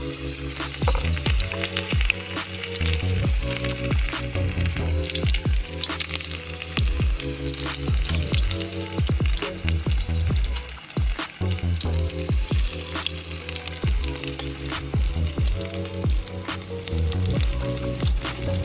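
Chicken tempura frying in hot oil, sizzling steadily, over background music with a regular beat.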